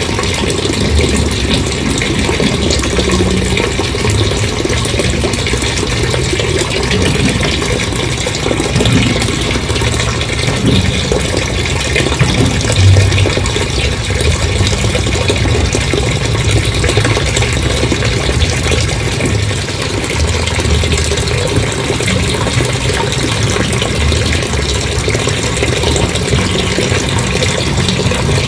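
Water gushing out in a steady, loud stream, as a large tank of water is emptied, with a low rumble underneath.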